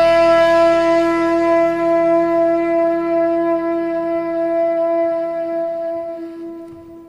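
Saxophone holding one long, steady closing note, which fades away over the last two seconds.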